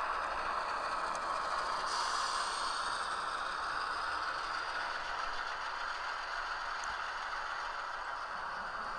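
Model railroad locomotive running steadily along the track and over a Peco curved turnout, wheels and mechanism rattling evenly without derailing.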